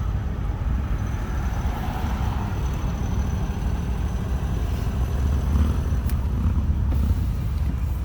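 Low, steady rumble of car engines and traffic.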